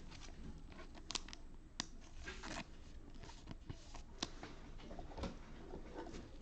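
Faint handling of trading cards: soft slides and flicks as cards are thumbed through and set down, with a few sharper ticks scattered through.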